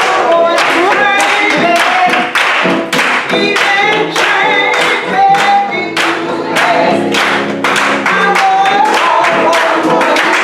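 Gospel singing by a group of voices, with handclaps keeping a steady beat.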